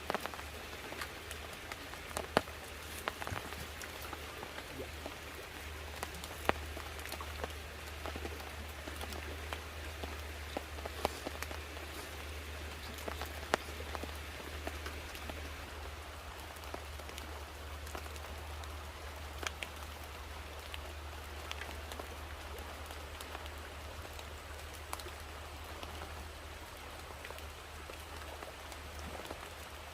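Steady rain falling, with many separate drops ticking sharply throughout, over a steady low hum.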